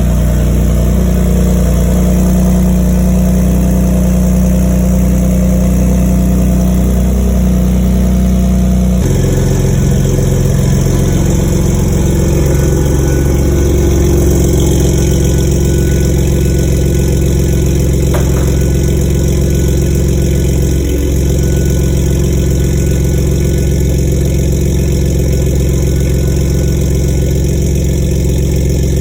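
Ford F150 3.5L EcoBoost twin-turbo V6 idling steadily through catless downpipes and a side-exit exhaust. Its tone shifts abruptly about 9 seconds in.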